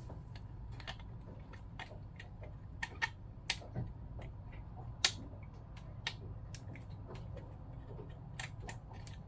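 Irregular light clicks and taps of small pump parts, bolts and tools being handled as the old Jabsco 37202 pump is taken apart, a few sharper knocks among them about three and five seconds in. A steady low hum runs underneath.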